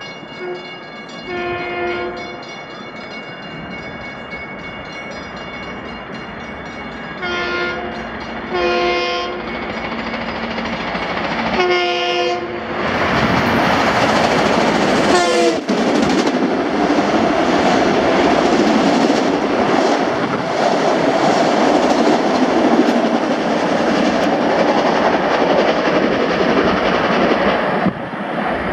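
LIRR Bombardier M7 electric multiple-unit train sounding its horn in four blasts of about a second each, one and then three closer together, as it approaches. It then passes close by, loud and steady for about fifteen seconds with wheels clacking over the rails and a brief squeal, dropping off near the end.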